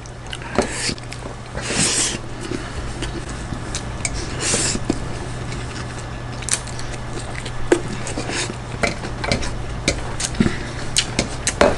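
Close-miked mukbang eating: chewing with many small clicks against a plate, and two longer rustling smacks about two and four and a half seconds in, over a steady low hum.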